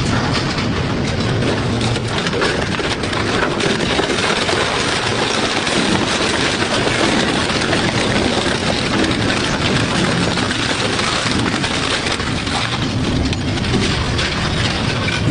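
Industrial double-shaft shredder grinding metal scrap: a steady, dense mechanical grinding, crowded with crunches and clanks of metal tearing.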